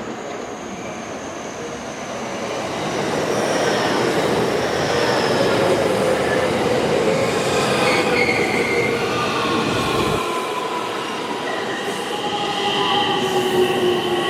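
JR West 225 series 100-subseries electric train pulling in and braking to a stop. Rolling noise grows louder about three seconds in, with a falling motor whine as it slows and high squealing tones from the brakes and wheels near the end.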